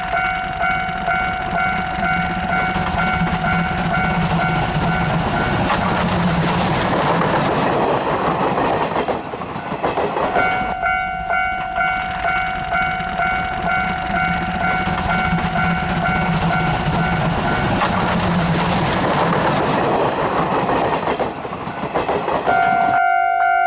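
C12 66 steam locomotive and its train passing, heard twice: each time a repeating ringing alarm with a steady pulse comes first, then the train's loud rushing rumble and wheel clatter. A different clear ringing tone starts abruptly near the end.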